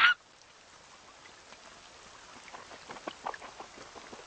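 Faint rain patter: a soft steady hiss with scattered light drops, growing slightly louder near the end. It opens with a brief, loud falling squeak.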